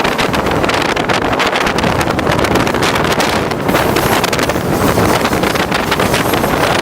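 Heavy wind buffeting the microphone on the roof of a moving New York City subway train, over the train's steady running rumble.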